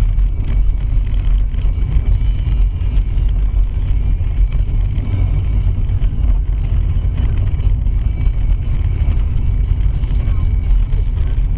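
Steady low rumble of a car on the move: road and engine noise inside a moving vehicle.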